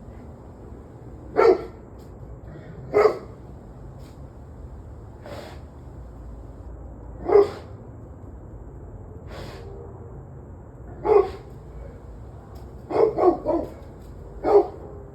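A dog barking in single barks a couple of seconds apart, then a quick run of three barks and one more near the end, over a steady low background hum.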